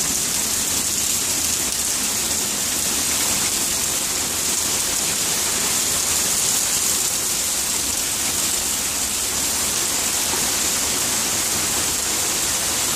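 Heavy rain falling steadily, a constant hiss with no thunder claps.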